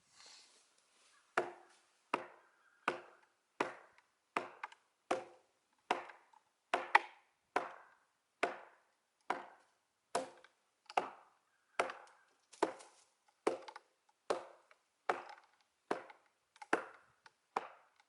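Hatchet chopping into a split oak log, about twenty even blows roughly three-quarters of a second apart, starting about a second and a half in. The blows are severing the fibres that still hold the two split halves together.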